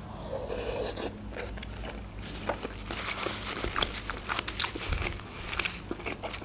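A person biting into food and chewing it close to the microphone, a run of small crackling, wet mouth clicks that thickens from about two and a half seconds in.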